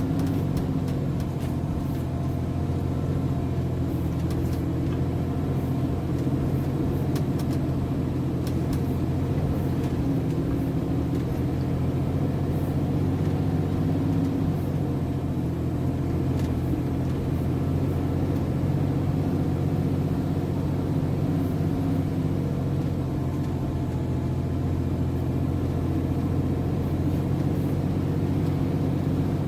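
A heavy truck's diesel engine running steadily, a constant low drone with no revving up or down, likely a MAN TGS 33.480 prime mover.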